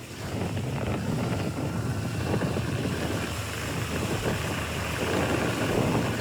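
Wind buffeting the microphone over the rush and splash of water around a boat moving through big waves, growing a little louder toward the end.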